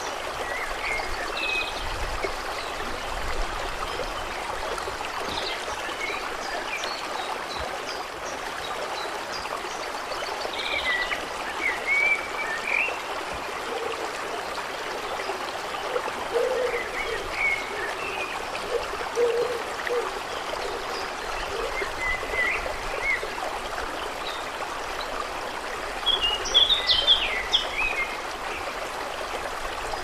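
Water trickling and running steadily, with birds chirping at intervals over it and a brief flurry of chirps near the end.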